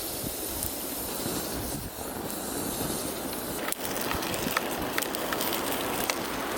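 Strong wind blowing steadily, with a wood fire crackling in sharp, irregular pops from about halfway through.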